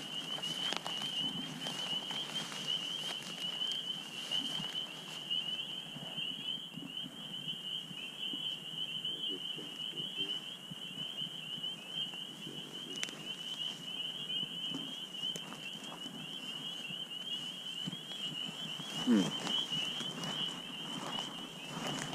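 A steady high trill at one unchanging pitch, typical of night-calling insects, with soft footsteps and rustling beneath it.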